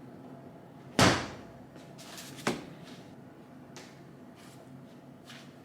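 Kitchen handling clunks: a loud knock about a second in and a softer one about a second and a half later, then a couple of faint taps, over a faint steady hum.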